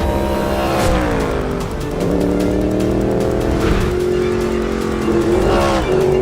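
Race car engine running hard, its pitch falling and rising in steps as it changes speed, under music.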